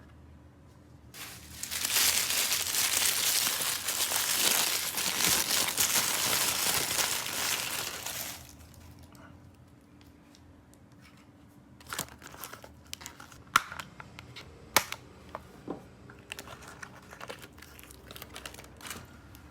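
Plastic packaging crinkling and tearing for about seven seconds as a toy is unwrapped, then a scatter of sharp light clicks and taps from handling the unpacked pieces.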